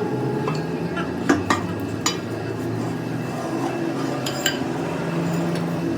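Several sharp metallic clinks and taps, like steel tools or parts knocking together, over a steady low hum; the clinks come about a second or two in and again past four seconds.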